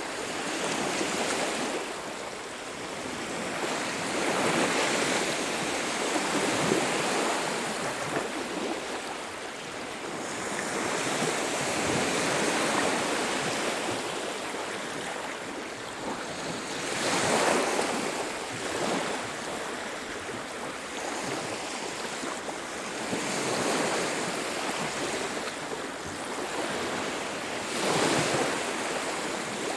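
Surf breaking on a beach: waves wash in and fall back every few seconds in a continuous rushing hiss.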